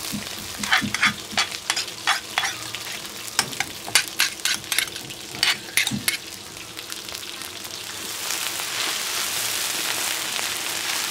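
A metal spoon clacks and knocks repeatedly as chilli curry paste is scooped from a stone mortar and tapped into a wok. From about 8 seconds in, the paste sizzles steadily in hot oil.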